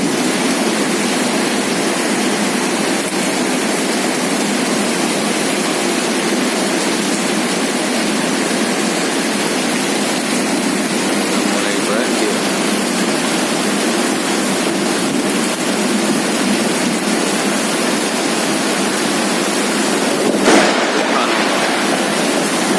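Heavy rain pouring down in a steady hiss, with one short sharp crack near the end.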